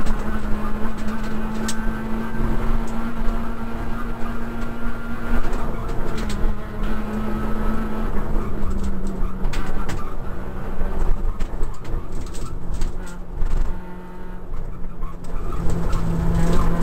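Peugeot 106 rally car's engine heard from inside the stripped cabin, running hard at high revs along a stage. The engine note drops about halfway through and eases off with a brief lull around fourteen seconds in, then picks up again near the end, over steady road noise with scattered sharp knocks and rattles.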